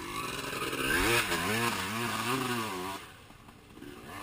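Enduro motorcycle engine revving up and down several times in quick succession, then dropping away near the end.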